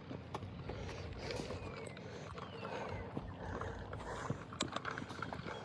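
Footsteps of people walking on a trail, a scatter of irregular light taps and scuffs with a low rumble of handling noise.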